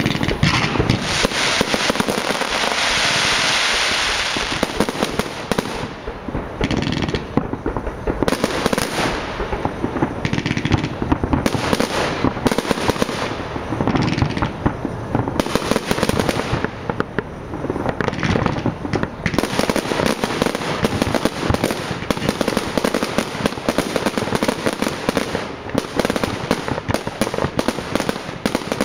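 Fireworks display: a continuous barrage of bangs and crackling, with a broad hiss a few seconds in.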